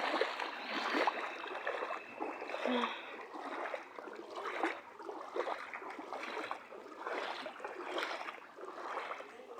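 Floodwater splashing and trickling in uneven surges, with no steady tone.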